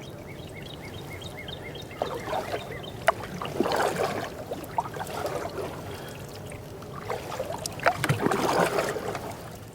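Canoe paddle strokes in river water: two strokes of splashing and dripping, one a few seconds in and one near the end, with small knocks of the paddle. A short, evenly repeated high bird trill at the start.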